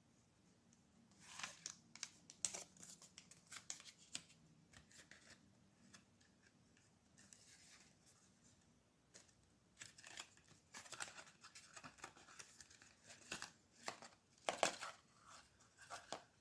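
Paper or plastic packaging being handled and torn: irregular bursts of crinkling and tearing, in two spells of a few seconds each.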